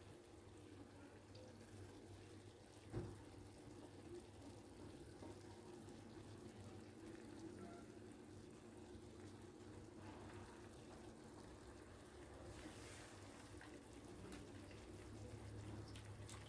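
Near silence: a faint steady hum, with one short knock about three seconds in.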